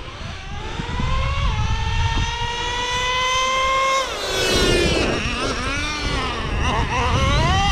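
Traxxas Revo 3.3's TRX 3.3 nitro engine running hard as the truck drives. The pitch climbs, dips about a second and a half in and climbs steadily again, then drops about four seconds in and swings up and down as the throttle is worked. The engine is freshly broken in, with its high-speed needle set a little lean, and is running well.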